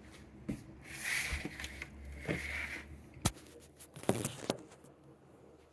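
Light kitchen handling sounds: scattered small clicks and knocks, with a sharp click about three seconds in, and two short rustling hisses.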